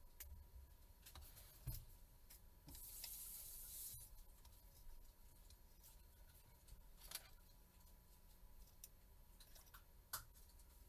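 Near silence with a few faint, sharp clicks of small parts and tools being handled, and a short hiss about three seconds in.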